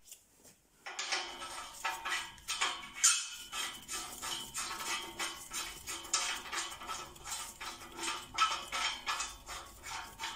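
Metal tools clinking, scraping and knocking on metal in quick irregular strokes, with a slight ringing, as a lambda sensor adapter is threaded into the exhaust; it starts about a second in.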